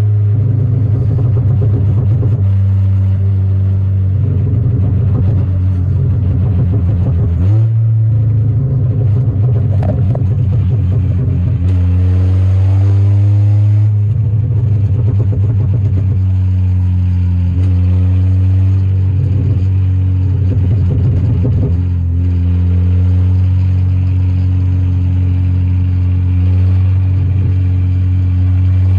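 Stage 3 tuned Volkswagen Golf R's turbocharged four-cylinder engine and exhaust under way, loud, mostly holding a steady low drone. The revs climb briefly a couple of times, most clearly about halfway through, before settling back to a steady pitch.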